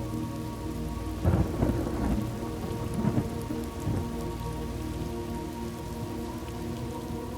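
Steady rain with a clap of thunder about a second in that rumbles on in several surges for two or three seconds, then dies back under the rain.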